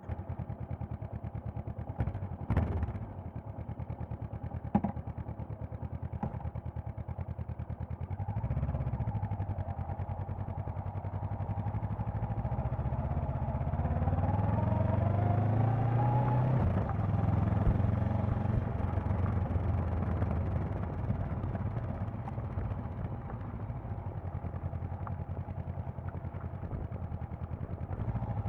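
Honda CB500X's parallel-twin engine running steadily at low revs with a few sharp clicks in the first seconds, then rising in pitch as the motorcycle accelerates, about halfway through, and settling into a steady, louder run.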